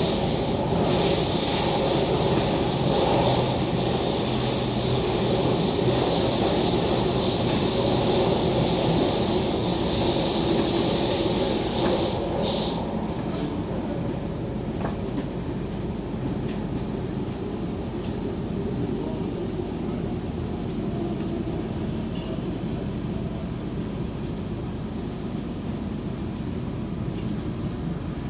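MTR K-Train heard from inside a carriage while under way. For about the first twelve seconds a high, steady wheel squeal rides over the running noise, then it fades, leaving a quieter steady rumble of the train running.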